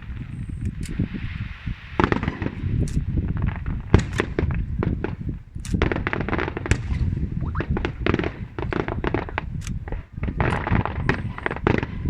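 Aerial fireworks display: a dense run of shell bursts and crackling reports over a continuous low rumble, with sharper bangs clustered about two, four, six to seven and ten to eleven seconds in.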